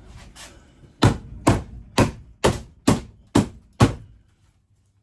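Seven hard, evenly spaced knocks, about two a second, as the interior fittings of a vintage motorhome are struck to force them loose.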